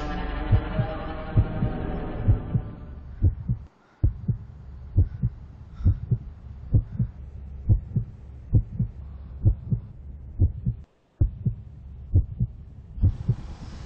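Heartbeat sound effect: low double thumps repeating steadily about once a second. A sustained music chord fades out under it in the first couple of seconds, and the sound cuts out briefly twice.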